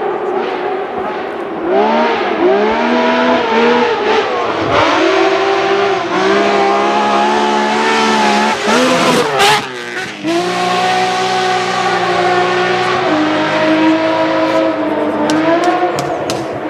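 Rally car engine revving hard and changing gear repeatedly, its pitch climbing and dropping with each shift. About halfway through the revs fall away with a few sharp cracks, then it pulls again and fades near the end.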